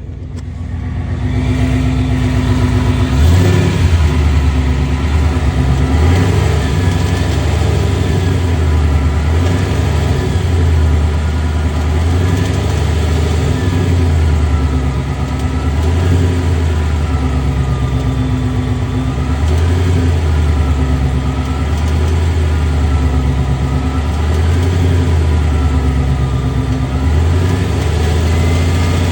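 2021 Mustang GT's 5.0-litre V8 running, with a deep drone that swells and drops away every couple of seconds and a faint whine rising and falling over it. This is the odd noise from under the car that the owner cannot identify.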